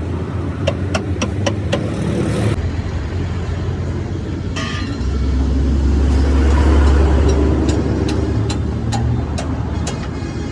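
Road traffic: a vehicle engine rumbles past, swelling louder for a few seconds in the middle and then fading, over a steady traffic drone. A quick series of sharp clicks or taps comes in the first couple of seconds, and a short hiss just before the loud pass.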